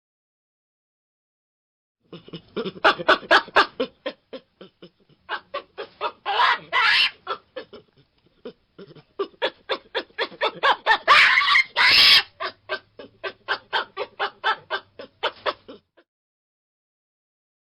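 Baboon calling in quick runs of short, clipped barking calls, about six a second, with louder, harsher cries a few seconds in and again about two-thirds of the way through.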